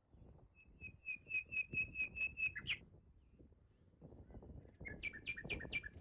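A songbird singing clear whistled notes. First comes a run of about eight evenly repeated notes, roughly four a second, ending in a quick upward note. A couple of seconds later comes a shorter run of four two-toned notes.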